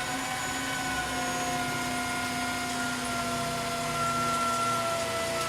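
An electric motor running steadily with a whine whose pitch drifts slightly down.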